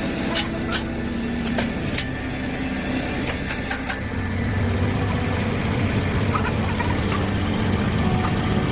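Scattered metallic clicks and knocks for the first few seconds, then an engine or motor running steadily, with a low hum that sets in about four seconds in.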